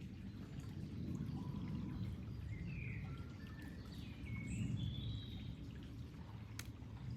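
Water flowing with a steady low rush, while birds chirp and whistle in short, scattered calls over it.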